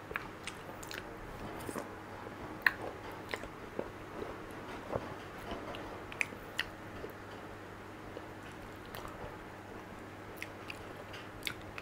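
A person chewing soft durian flesh: irregular wet mouth smacks and small clicks, with no speech.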